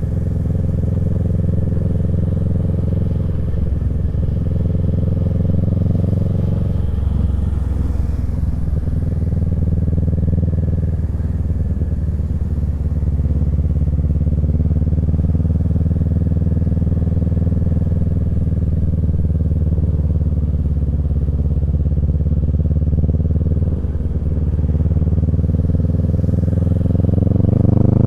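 Kawasaki Z650's parallel-twin engine through a Yoshimura Alpha exhaust, running at fairly steady revs under way. The engine note dips briefly about a quarter of the way in and again near the end.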